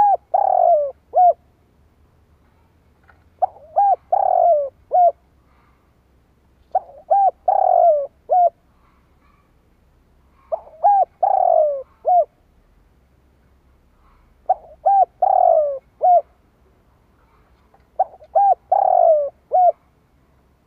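Spotted dove cooing: six repeated phrases about every three and a half seconds, each a few short coos around a longer falling note. This is the decoy's call used to provoke and lure wild doves.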